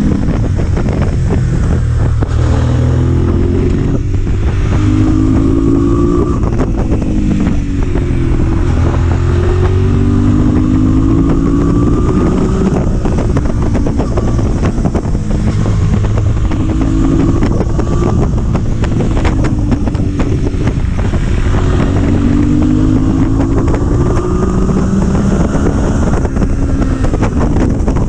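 Motorcycle engine under way, repeatedly rising in pitch as it accelerates and dropping back at each gear change, with wind noise on the microphone.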